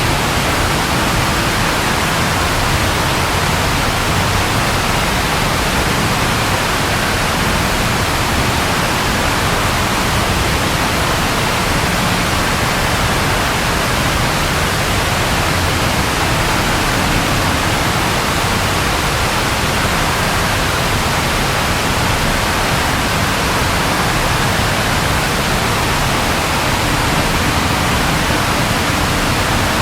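Steady, even rainfall hiss, with no thunder.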